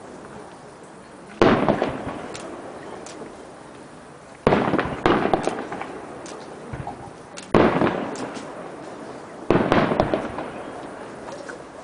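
Aerial fireworks shells bursting overhead: five loud booms one to three seconds apart, each dying away in a long rolling echo, with faint small pops and crackles between them.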